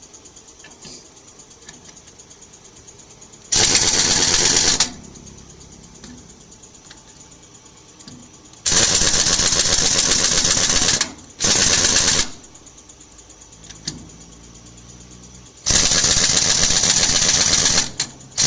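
Pneumatic impact wrench rattling in four loud bursts of one to two seconds each, with a faint low hum in the pauses between them.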